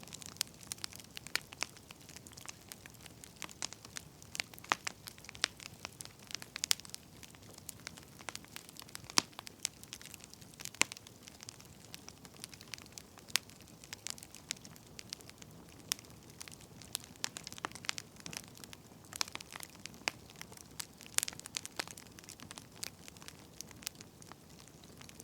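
Firewood fire crackling: frequent, irregular sharp snaps over a faint steady hiss.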